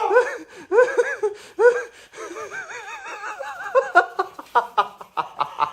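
High-pitched laughter: a few separate swooping laughs, a wavering stretch, then quick short bursts of giggling in the last second and a half.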